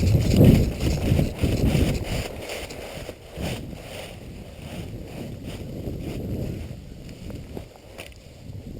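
Low wind buffeting on the microphone, loudest in the first two seconds, with the rustle and steps of a player moving over rough ground and a few scattered sharp ticks.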